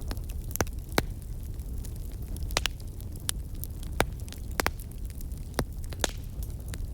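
Wood fire crackling: irregular sharp pops and snaps from burning logs, about ten of them, the loudest about a second in, over a steady low rumble of the flames.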